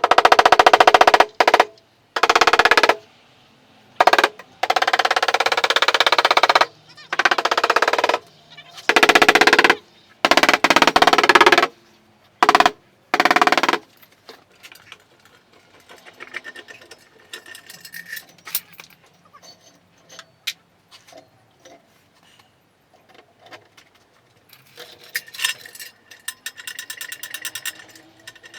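A bodywork tool run in repeated bursts of rapid rattling, each one to two seconds long, about a dozen times; in the second half, only scattered light clicks and taps.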